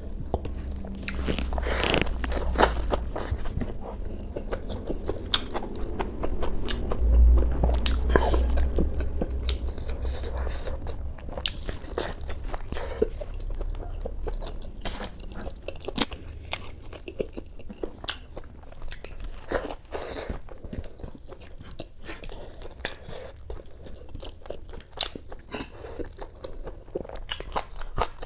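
Close-miked eating: a person chewing and biting mutton and rice, with many short sharp clicks and crunches of the mouth at work. A low rumble runs for about two seconds starting around seven seconds in.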